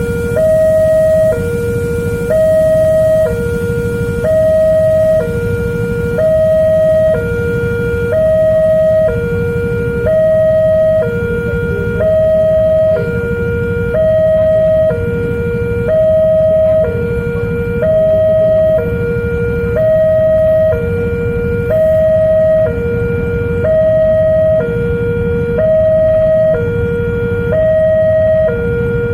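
Electronic two-tone warning alarm of a railway level crossing, alternating between a low and a higher tone about once a second and repeating steadily, signalling that a train is approaching. A steady low rumble runs beneath it.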